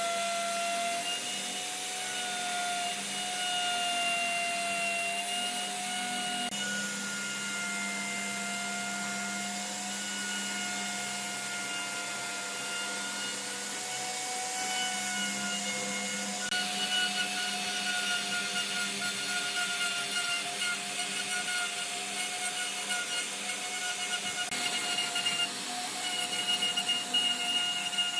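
Electric power tool running steadily with a motor whine held at one pitch and a rasping of the tool working the surface; the sound shifts abruptly a few times.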